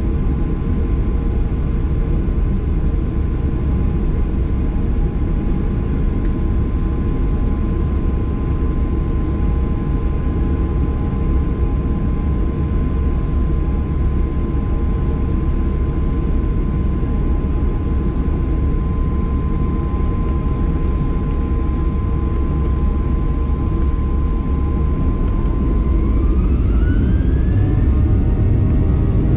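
Inside the cabin of a Boeing 737-800, its CFM56 jet engines run at a steady low power with a constant hum and whine. About 26 seconds in, the engine whine rises in pitch and grows a little louder as thrust is increased.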